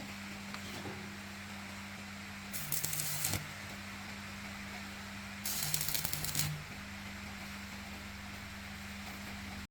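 Two bursts of compressed air hissing from an air tool, each about a second long, over the steady hum of a running motor whose tone drops during each burst.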